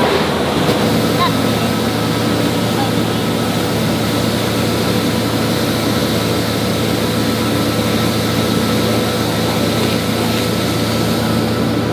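An engine running steadily at an even pitch, under a constant noisy rush.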